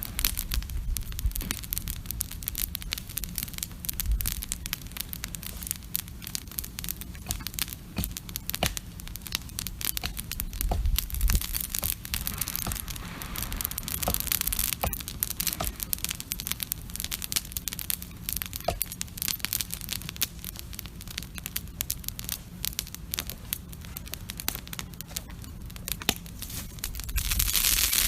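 Wood campfire crackling, with rapid irregular snaps and pops over a steady hiss. Near the end the fire's hiss grows louder and steadier.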